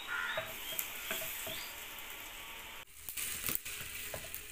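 Onions and ginger-garlic paste sizzling in oil in a pot over a wood fire, stirred with a wooden spatula that scrapes and taps against the pot, with a brief gap about three seconds in.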